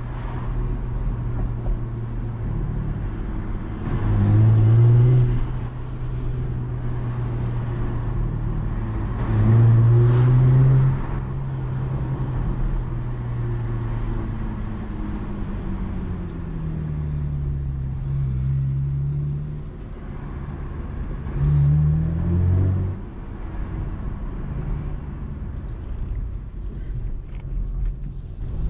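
Chevrolet Camaro engine running at low, steady revs while driving, with three short bursts of throttle where the engine note rises and gets louder. There is also a slower dip and rise in pitch partway through.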